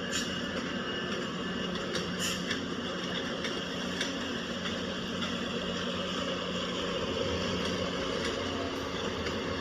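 Train standing or moving slowly at a station platform: a steady low engine hum with a few sharp clicks and clanks, most of them in the first four seconds.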